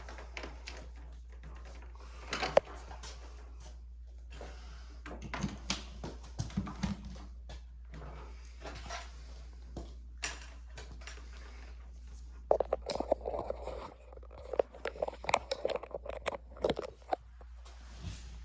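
Handling noise of equipment and cords being connected to power: scattered clicks, knocks and rustles, busiest a few seconds from the end, over a steady low hum.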